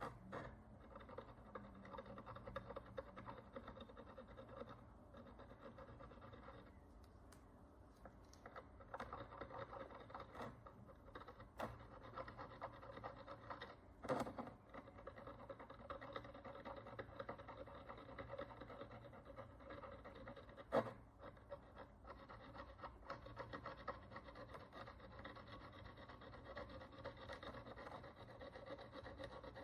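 Faint, continuous scratching and rubbing of a hand cleaning tool working the dirt and oxidation crust off a Roman bronze follis, with a couple of sharp clicks: one about halfway through and a louder one about two-thirds of the way through.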